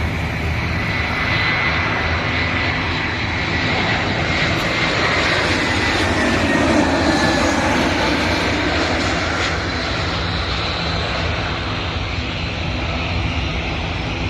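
Airliner engines passing by, a steady rushing roar with a high whine that slowly falls in pitch, loudest about halfway through.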